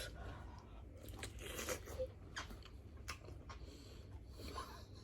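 A person biting and chewing lobster: faint, irregular short clicks of eating.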